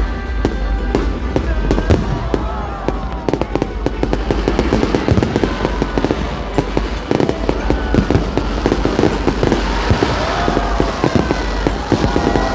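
Fireworks display: a dense, continuous run of sharp crackles and bangs, with many whistling tones gliding in pitch over the top.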